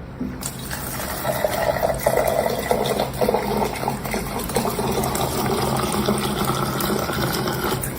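Steady rushing of running or pouring water.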